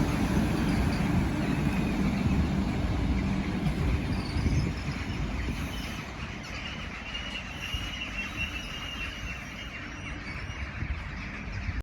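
Train running along the track, its rumble slowly fading away.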